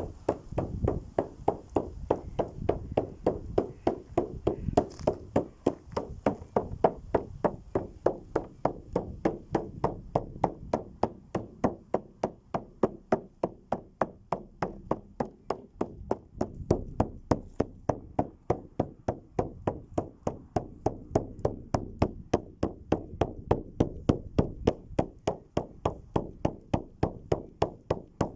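Steady, even rhythmic percussive beats, about three strikes a second, with a low rumble underneath.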